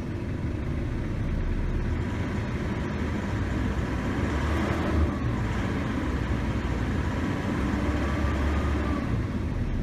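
Isuzu D-Max engine held at about 2,000 rpm, running steadily, during a test of whether the air-conditioning compressor kicks in.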